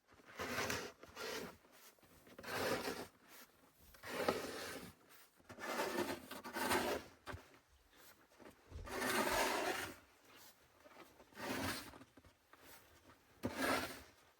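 A series of about nine rough scraping strokes, each under a second long, at an uneven pace.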